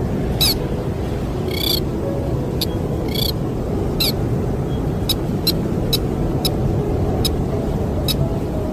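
A bird giving short, sharp high-pitched calls, repeated irregularly about once or twice a second, over a steady rushing wind noise.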